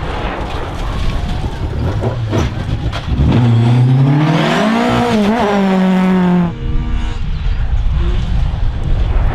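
Rally car engine running hard at speed: it revs up about three seconds in, holds at high revs with a brief wobble, then cuts off abruptly, leaving a low rumbling noise.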